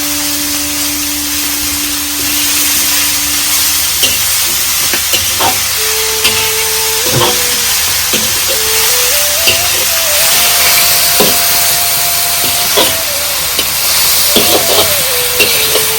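Heavy rain falling, a loud, steady hiss, with scattered sharp drips or knocks.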